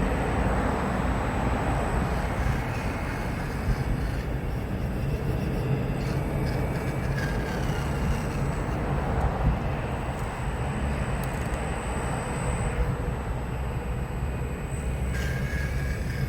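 Radio-controlled scale model of a Volvo excavator working: a steady mechanical running noise with a thin, high whine over it that drops out and returns.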